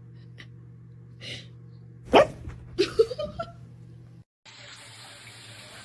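A dog barking: one sharp, loud bark about two seconds in, followed by a few shorter yips.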